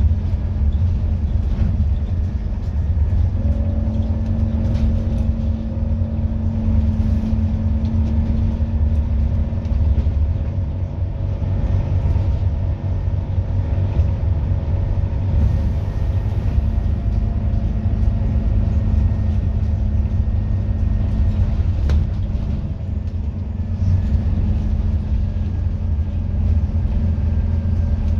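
Scania N230UD double-decker bus's five-cylinder diesel engine running under way with a steady low rumble. The engine note rises about three seconds in, eases off around eleven seconds, and picks up again in the last third.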